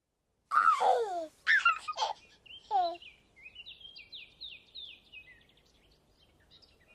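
A baby giggling and babbling in a few short bursts, then birds twittering in a quick run of short falling chirps that fades out.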